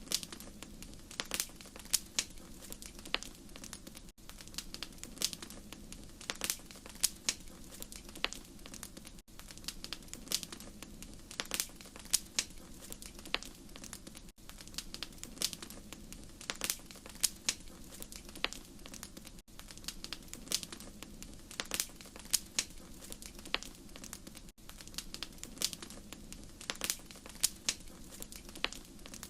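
Wood fire crackling in a fireplace: irregular sharp pops and snaps over a steady low rumble and hiss. There is a brief break in the sound about every five seconds.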